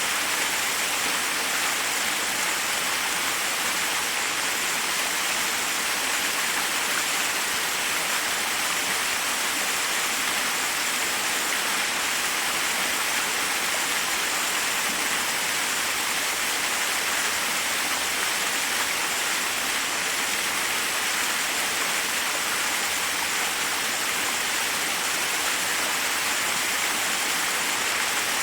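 Forest waterfall: water cascading over rocks in a steady, even rush.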